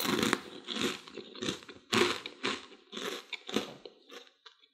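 Mouth chewing crispy, crunchy dried broccoli florets: a run of crunches about two a second, growing fainter near the end.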